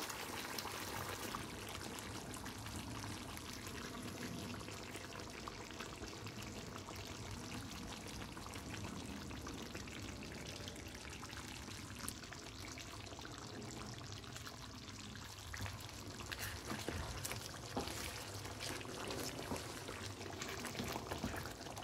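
Chicken and tomatoes sizzling in hot oil in a deep pan on high heat: a low, steady hiss with faint crackles, and a few light clicks and taps in the second half.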